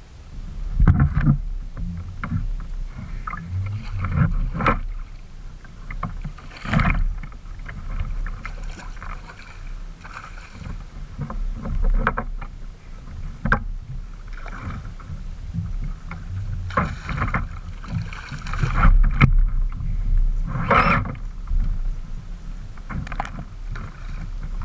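Kayak on the water: paddle strokes splashing and knocking against the plastic hull at uneven intervals, over a low rumble.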